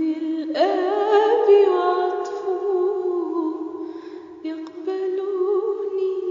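A woman singing the closing long held notes of an Arabic Christian hymn, with vibrato, a new note starting about half a second in.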